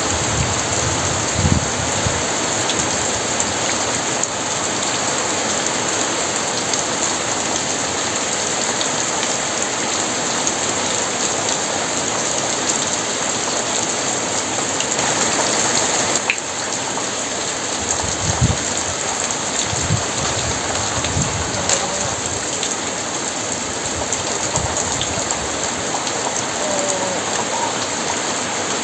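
Heavy rain pouring steadily onto surfaces. Short low rumbles of thunder come through under it about a second in, and again a few times about two-thirds of the way through.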